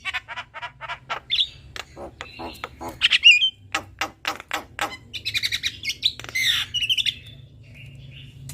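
A pair of Javan mynas (jalak kebo), male and female, calling together: quick runs of sharp clicking notes mixed with whistled glides and harsh squawks. The calls thin out near the end.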